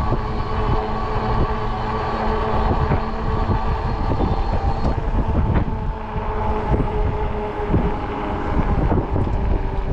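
Wind buffeting the microphone during a ride on a fat-tire e-bike, over the bike's steady riding hum.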